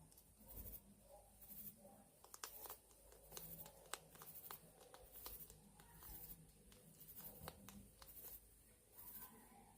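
Faint, irregular clicks and scratches from small hedgehogs moving about.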